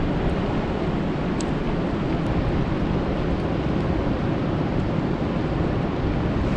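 Rain falling on a lake: a steady rushing of rain with a deep low rumble and a few faint ticks of single drops.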